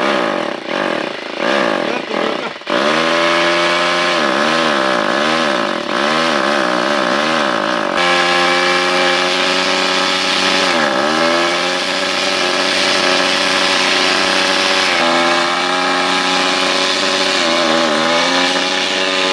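Motorcycle engine sputtering in short bursts for the first couple of seconds, then catching and running, revved up and down repeatedly with the throttle. The revs drop sharply and come back up a couple of times later on.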